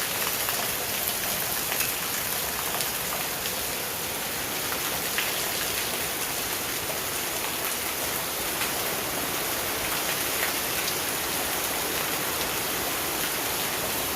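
Steady rain from a summer storm, with a few sharper drop taps now and then.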